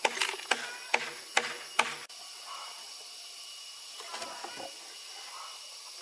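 A quick run of about five or six sharp knocks, a little under half a second apart, each with a brief ring, then a softer handling noise a few seconds later, over a steady high hiss.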